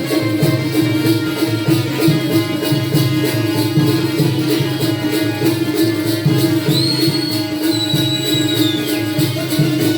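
Instrumental stretch of Konkani jakhadi folk music: a hand drum and small cymbals keep a fast, even beat over a held note. A high whistling line rises and then slides down from about seven seconds in.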